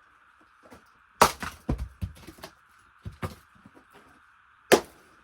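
Split firewood pieces knocking and clattering against each other as they are handled and laid in: about seven sharp wooden knocks at uneven spacing, the loudest a little after one second in and another near the end.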